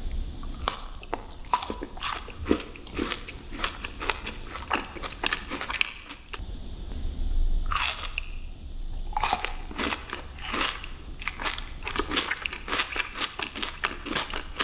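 Close-miked mouth sounds of a crunchy sweet being bitten and chewed: a dense run of sharp, irregular crunches and crackles.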